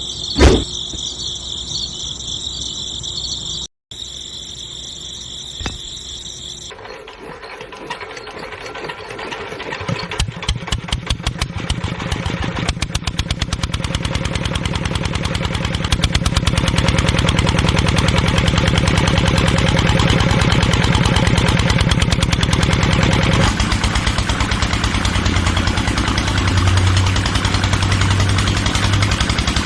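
A high steady whine for about the first seven seconds, then a tractor engine chugs into life, its beat quickening and settling into a steady run.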